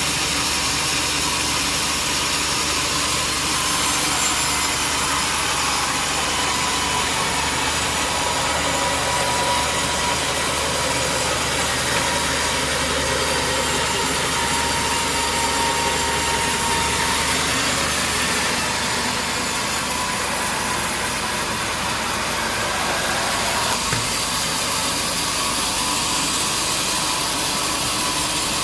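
Sawmill saw running steadily, cutting through a large durian tree stump, with a faint whining tone that comes and goes in the middle. A single sharp click sounds a little before the end.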